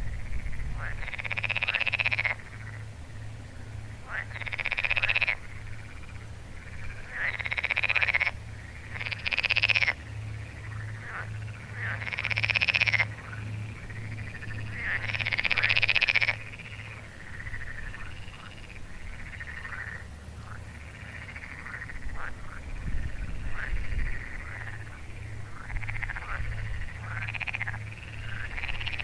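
A chorus of frogs croaking. In the first half, loud calls of about a second each come every two to three seconds; later come many fainter, overlapping calls. A low, steady pulsing runs underneath.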